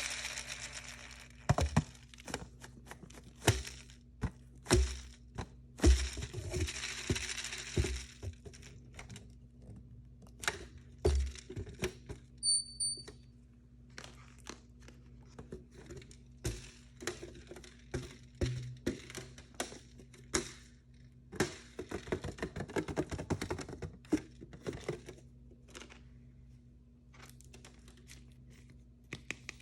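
Hands unboxing blind-bag toys: plastic packaging crinkling and tearing in two longer stretches, amid many sharp taps and thunks of small objects handled on a hard surface.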